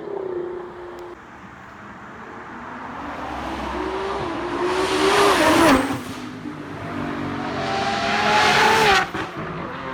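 Supercar engine at full throttle at high speed. Its note climbs to a loud peak, drops sharply about six seconds in, then climbs again and cuts off abruptly near the end.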